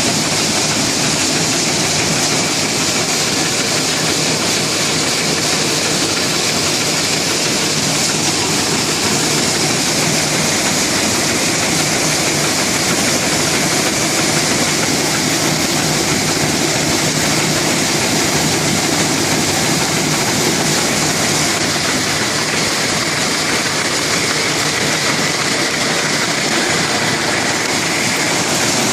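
Rice milling machine running steadily: a loud, even mechanical noise with a faint low hum that holds without change.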